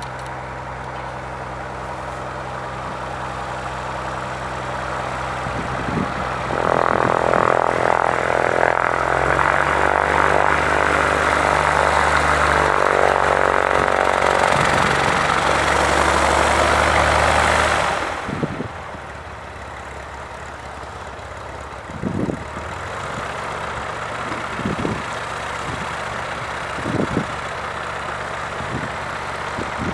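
Cessna 172H Skyhawk's six-cylinder engine and propeller running, growing louder and staying loud for about ten seconds, then dropping off suddenly. A few short knocks follow in the quieter second half.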